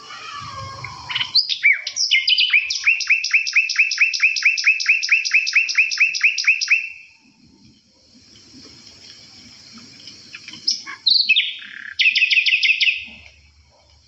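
Caged songbirds calling and singing: one long rapid trill of repeated down-slurred notes, about five a second for some four seconds, with scattered shorter calls around it, then a brief burst of the same trill near the end.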